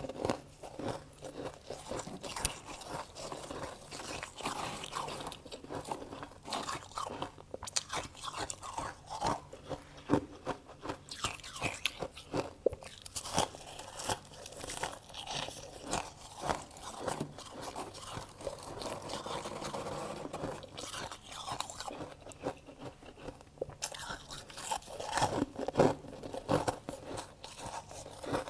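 Person biting and chewing freezer frost: a dense, irregular run of crunches.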